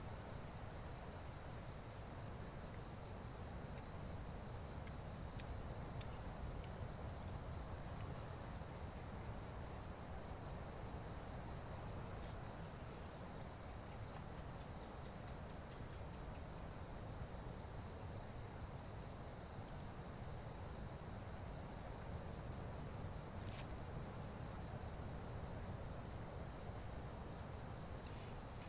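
Steady chorus of insects trilling, a continuous high pulsing buzz, over a low rumble, with a couple of faint sharp clicks.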